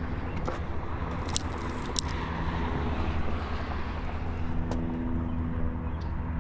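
Steady low mechanical drone with a few held tones, like a running engine or motor traffic, going on without change. Two sharp clicks stand out briefly about a second and a half and two seconds in.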